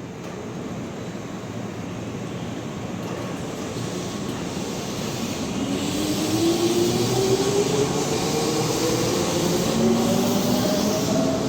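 Keihan electric commuter train pulling away and accelerating, its traction motors giving a whine that rises steadily in pitch over a running rumble, louder as speed builds.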